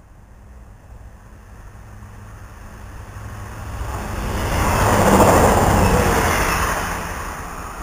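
Passenger train passing along the platform on the near track: the rushing noise of its wheels on the rails builds steadily, is loudest about five to six seconds in, then fades as the train goes by.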